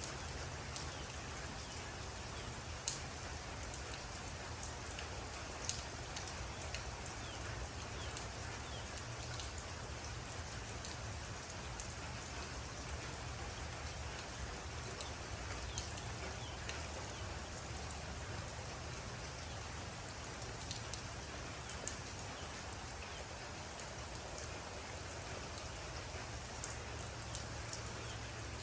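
Steady rain falling, with individual drops striking a surface in scattered sharp ticks, a few louder ones standing out.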